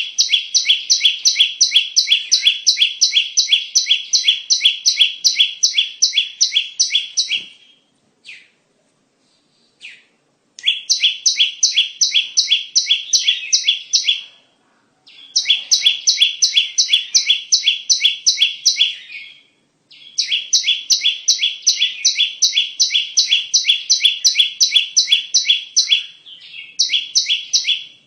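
Ciblek (a small prinia) calling in rapid, sharp repeated chirps, about four a second, in long bouts broken by a few short pauses: a lure call recording.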